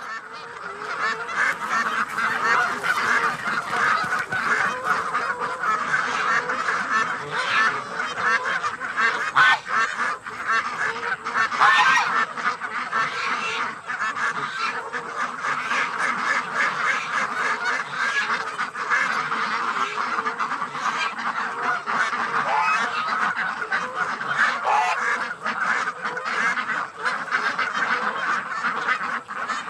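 A large flock of waterfowl calling continuously, a dense chorus of many overlapping calls.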